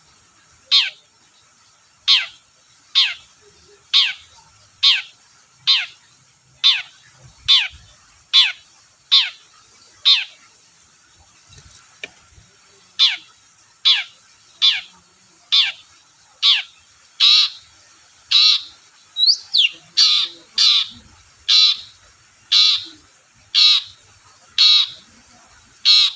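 Long-tailed shrike (cendet) giving a long series of harsh, downward-sweeping calls, about one a second, that come closer together and in pairs in the second half.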